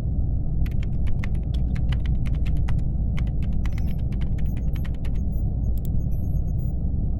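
Laptop keyboard typing in two quick runs of clacking keystrokes over a steady low hum of spaceship ambience.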